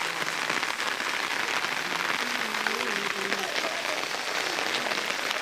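Heavy rain falling steadily, a dense, even patter of drops. A faint voice can be heard behind it about halfway through.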